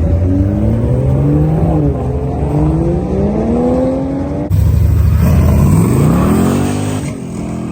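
Car engine and exhaust accelerating hard, the pitch climbing with a brief drop at a gear change about two seconds in. After an abrupt change a second engine sweeps up quickly in a hard rev or pull-away.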